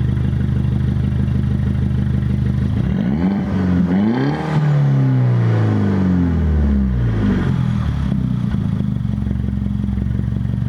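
2009 Mini Cooper S (R56) turbocharged 1.6-litre four-cylinder idling, warm, through a cat-back exhaust with a Flowmaster Super 10 muffler and the resonator deleted. About three seconds in it is revved: the pitch rises, then falls back to idle over the next few seconds.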